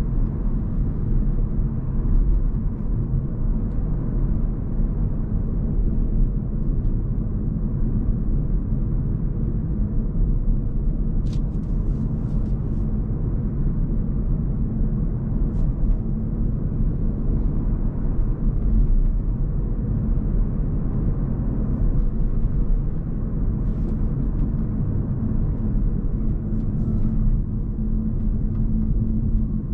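Steady low rumble of a Hyundai Kona Hybrid driving along, mostly road and tyre noise, with a few brief faint clicks about a third of the way in.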